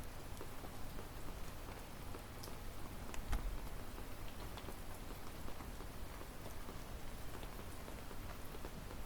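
Wood fire burning: a steady hiss with scattered small crackles and pops, and one louder pop about three seconds in.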